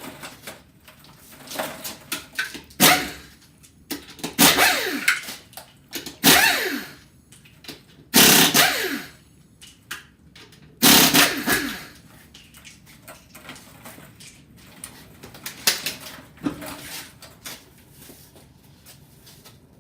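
Cordless impact wrench running in several short bursts, each about a second long, dying away with a falling whine: lug nuts being spun off a wheel. Lighter clicks and handling noises follow.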